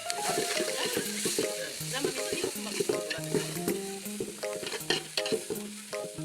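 Food sizzling in a frying pan as it is stirred, with scattered clicks and scrapes of the utensil, over quiet background music.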